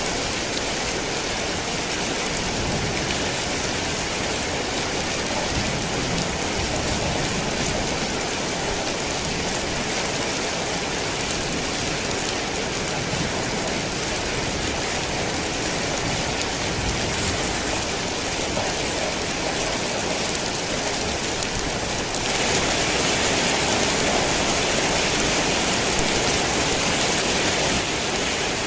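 Heavy rain falling steadily in a continuous hiss. About 22 seconds in it grows louder and brighter for several seconds, then eases back.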